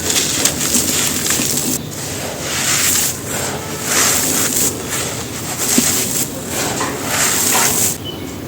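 Clumps of dry, gritty red dirt being crumbled and crushed, giving a continuous crunching and crackling that swells and eases every second or so.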